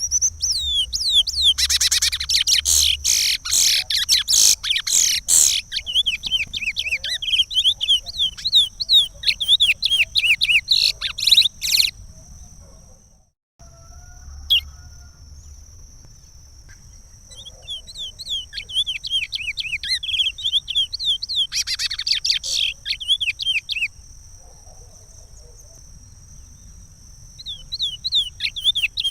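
Chestnut-bellied seed finch (curió) singing the regional song of Pará: long bouts of rapid, sweeping whistled notes with a pause of a few seconds between bouts. A steady high-pitched drone runs underneath.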